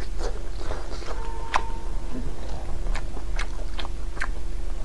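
Close-miked mouth sounds of eating braised pig tail: biting and chewing, with a run of sharp wet clicks and smacks. The loudest click comes about one and a half seconds in.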